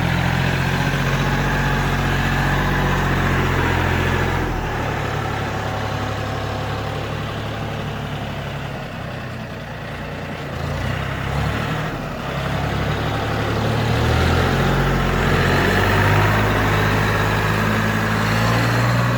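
John Deere tractor's engine running steadily, its pitch shifting several times: a drop about four seconds in, changes in the middle, and a rise again near the end.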